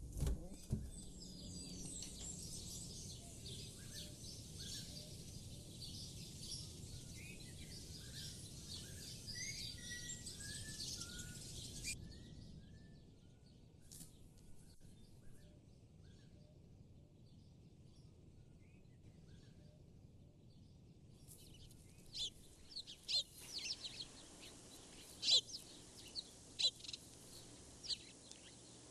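Several small birds chirping and singing, busy for the first dozen seconds, then a quieter stretch, then chirping again. A few sharp clicks stand out over the birdsong near the end.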